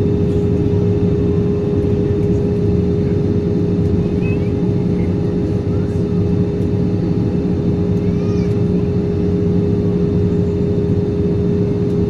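Airbus A320 cabin noise in flight: a steady engine and airflow drone with a constant hum.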